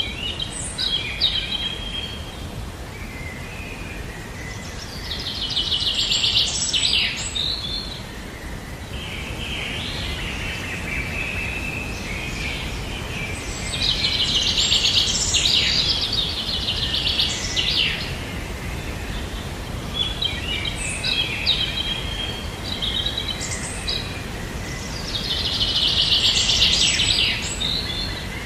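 Birds singing outdoors: one repeats a rapid, buzzy trill about every ten seconds, each lasting two to three seconds, with shorter chirps from other birds between, over a steady low background hiss.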